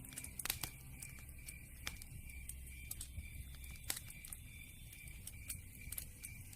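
Campfire crackling, with irregular sharp pops over a low, steady rumble of burning.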